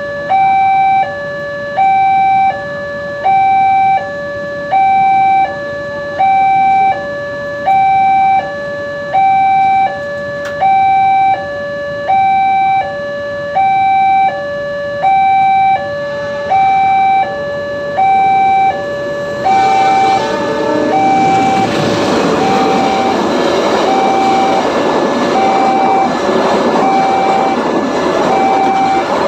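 Railway level-crossing warning alarm sounding a loud two-tone high-low signal, about one cycle a second. About twenty seconds in, the rolling noise of a passing train rises beneath it while the alarm keeps sounding.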